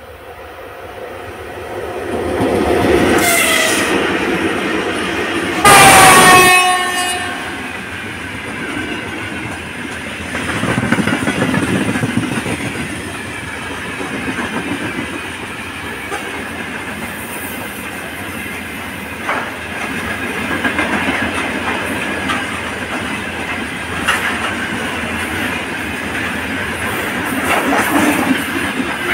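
Three-section 3ES4K 'Donchak' electric locomotive sounding its horn twice as it approaches, the second blast short and very loud. After that, a long freight train of gondola and dump cars rolls past with steady wheel rumble and clickety-clack over the rail joints.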